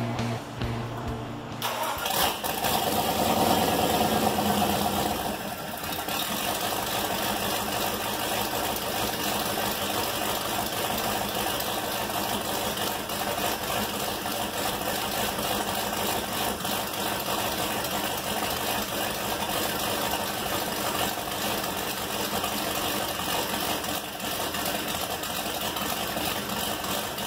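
Ford 351 Windsor V8 on open headers with no turbo fitted, firing up about two seconds in. It runs at raised revs for a few seconds, then drops at about five and a half seconds into a steady, lumpy cammed idle.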